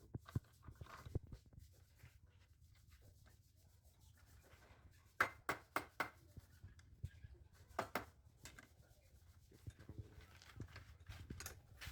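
Light knocks and taps of handwork on wood with faint rubbing between them; a quick run of about four sharp taps comes about five seconds in, and a couple more near eight seconds.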